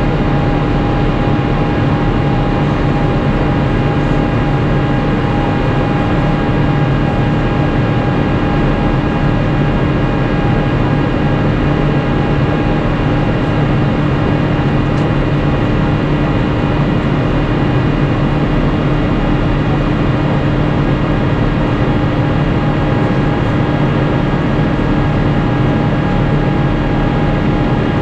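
Steady in-flight cabin noise of an Airbus A350-900: the rush of air and the drone of its Rolls-Royce Trent XWB engines, with a few steady hum tones running through it.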